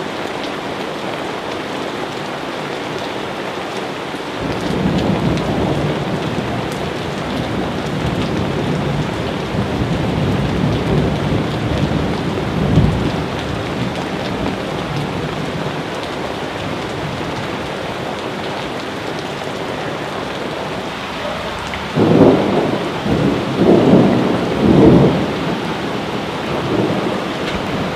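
Steady rain falling, with thunder rolling: a long rumble builds a few seconds in, and several louder rolls of thunder come near the end.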